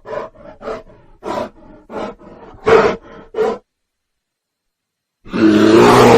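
A big cat calling: a run of short grunting calls about twice a second, then after a pause one loud, long roar near the end.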